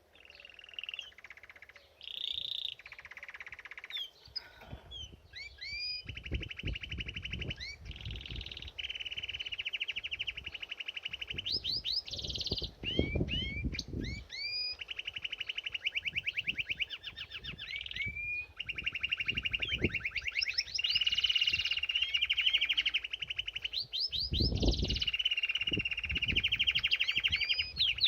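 Domestic canary singing: long fast trills of repeated notes with rising whistled sweeps between them, getting louder as it goes on. Low thumps and rustles come in now and then under the song.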